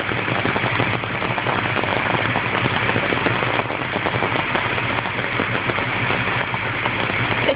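Ford Mustang V8 engine idling steadily, a low even drone under a fast, dense ticking.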